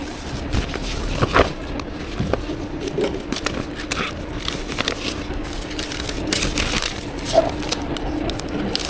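Drink-shop counter work: irregular clicks, knocks and crinkling of cups, lids and utensils being handled, with two sharper knocks, over a steady machine hum.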